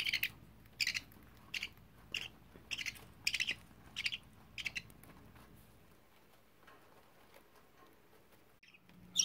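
Budgerigars chirping: a run of short, high chirps, one or two a second, that dies away about five seconds in.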